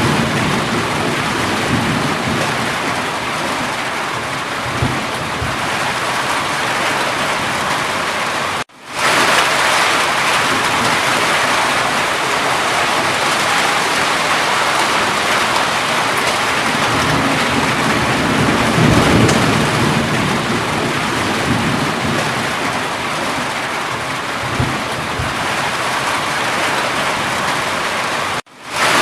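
Steady heavy rain falling, with low rumbles of thunder swelling and fading a few times. The sound cuts out for a moment twice, about nine seconds in and near the end.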